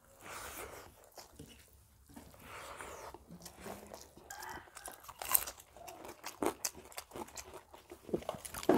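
Close-up mouth sounds of two people eating rice and fried brinjal by hand: chewing with irregular wet clicks and smacks, sharpest about five seconds in and again near the end.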